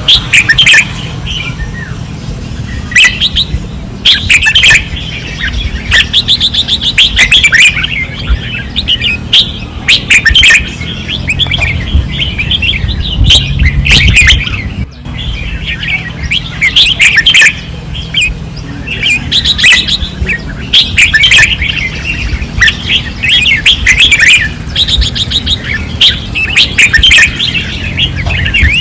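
Red-whiskered bulbuls singing fiercely: loud, quick warbling phrases repeated every second or two, over a steady low rumble.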